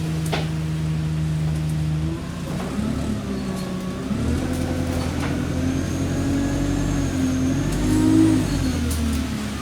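Alexander Dennis Enviro200 bus's diesel engine idling steadily, then about two seconds in pulling away: the engine note rises, dips, climbs again through the gears, is loudest around eight seconds, and falls back to a steady note near the end. A faint high whine sounds over it in the later seconds.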